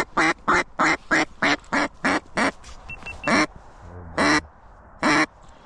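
Single-reed duck call blown in hen mallard quacks to bring ducks into the decoys: a fast, even run of about nine quacks, then three single quacks spaced about a second apart.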